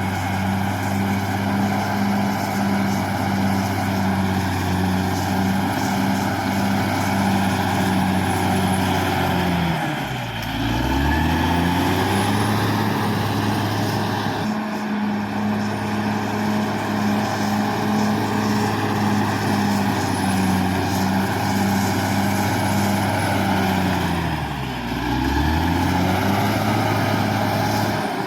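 Caterpillar D6R XL bulldozer's diesel engine running hard and steady. Its note sags in pitch and picks back up twice, about ten seconds in and again near the end.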